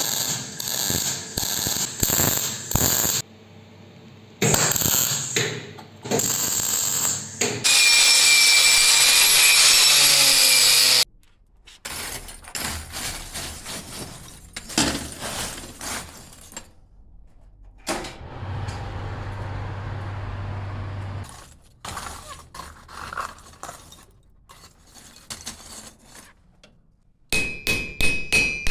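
Blacksmith's hammer blows on iron at the anvil, in several runs of quick strikes, the last ones leaving a ringing tone. About eight seconds in, a loud steady machine noise runs for about three seconds, and later a low steady hum sounds for a few seconds under lighter taps.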